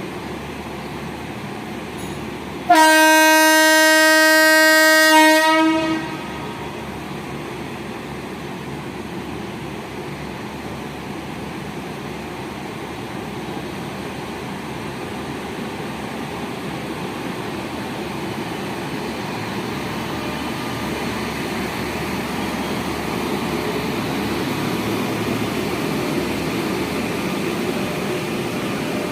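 Locomotive horn of the Konark Express sounding one long steady note for about three seconds, a few seconds in. Around it is the rolling noise of the train on the rails, which slowly grows louder.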